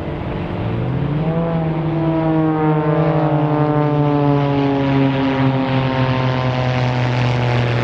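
Piston engine and propeller of a Pitts Special aerobatic biplane in flight. The engine pitch sweeps up sharply just under a second in, then drones steadily and slides slowly lower as it grows louder.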